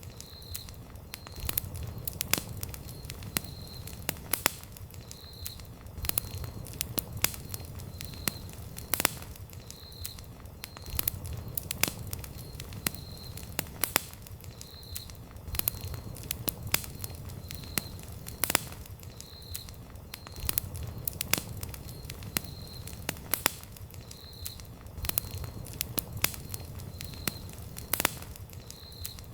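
Wood campfire crackling: frequent sharp pops and snaps of burning wood over the low rumble of the flames. A faint short high chirp repeats about once a second underneath.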